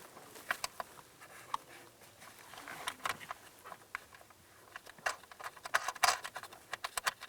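Light, irregular clicks and taps of hands working with small hardware, as nuts are threaded by hand onto mounting studs, with a quicker cluster of clicks late on.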